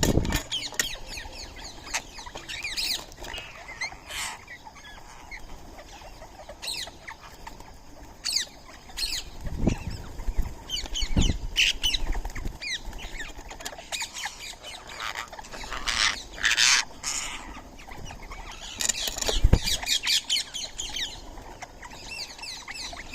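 Birds at a feeding spot giving many short, high, chattering calls, with a few low wing-flap thumps as they fly in and out.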